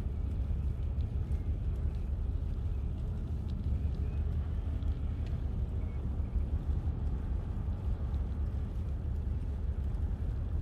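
Low, fluttering rumble of wind buffeting the microphone while riding a bicycle, with a faint noisy hiss above it.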